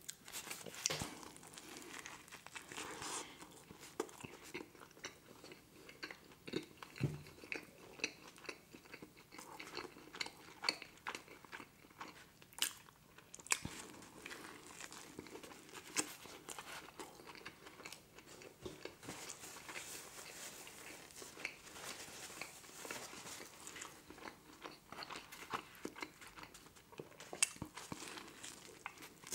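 Close-up chewing and biting into a McDonald's Grand Mac burger: irregular wet mouth smacks and crunches, with frequent sharp clicks.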